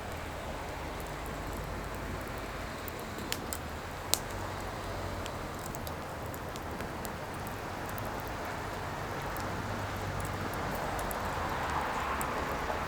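Firewood burning: a steady hiss from the flames with a few sharp crackling pops, the loudest about four seconds in.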